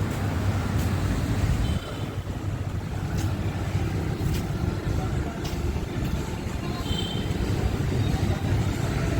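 Street traffic: a steady low rumble of passing vehicles, which drops off suddenly about two seconds in and then carries on.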